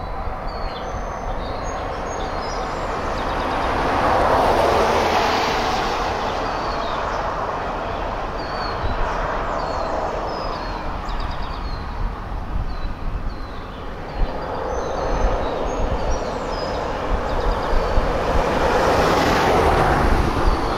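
A train running along the rails, its rumble swelling twice, with small birds chirping throughout.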